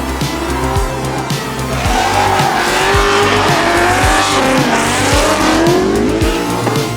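A drift car's engine revving and its tyres squealing, wavering up and down in pitch and loudest from about two seconds in until near the end, over music with a steady beat.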